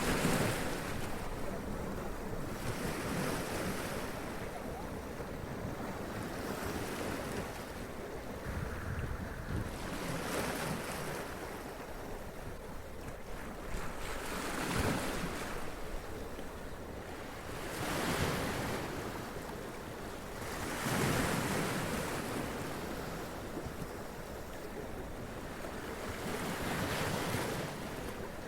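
Sea waves splashing against and running up rocks, a continuous wash of surf with a fresh surge every few seconds. Wind is on the microphone.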